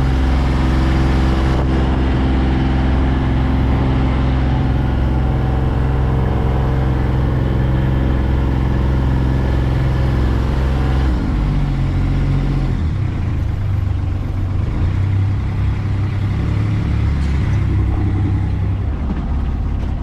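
Tour boat's engine running steadily under way, then its note drops and changes about eleven seconds in as the throttle is eased.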